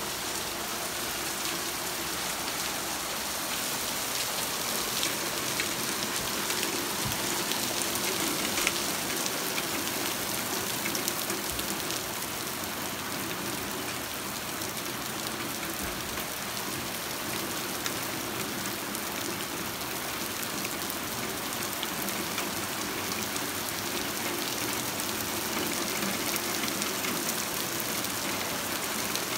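Steady rain falling on wet asphalt and puddles: a constant, even hiss of drops splashing.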